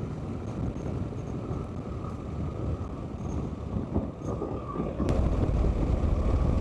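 Wind rush and running noise of a BMW R 1300 GS motorcycle at about 60 km/h, picked up by a helmet-mounted wireless microphone with the visor open. A click about five seconds in marks the mic's noise cancellation being switched off, and the low rumble is louder after it.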